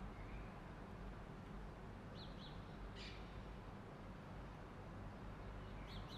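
A few faint, short bird chirps: a pair about two seconds in, one more a second later, and another pair near the end. Underneath is a quiet, steady low hum.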